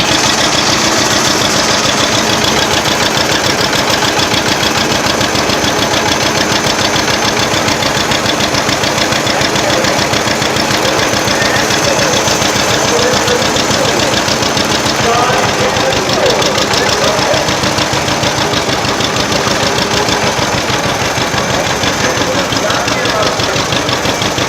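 Vintage tractor engine running steadily at close range, a fast even firing with no change in speed.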